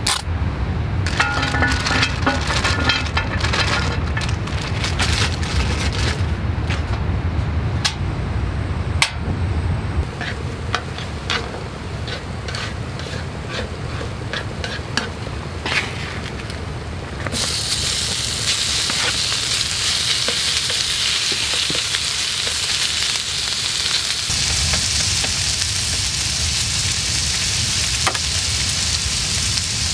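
Food frying on a hot griddle plate. For the first half a wooden spatula scrapes and taps on the plate over a faint frying sound; a little past halfway a loud, steady sizzle sets in suddenly and keeps on.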